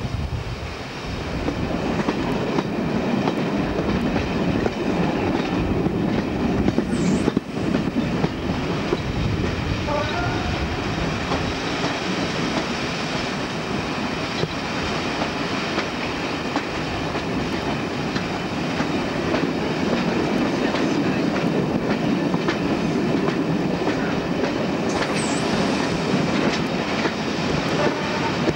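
Diesel-hauled passenger train running steadily, heard from an open coach window: the locomotive's engine and the coaches' wheels clicking over the rail joints.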